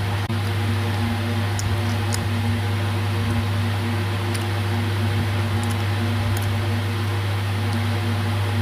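Steady low electrical hum with an even noise under it, unchanging throughout, and a few faint light clicks.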